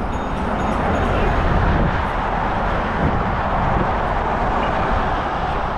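Steady road noise of a car driving: a continuous rumble of tyres and engine.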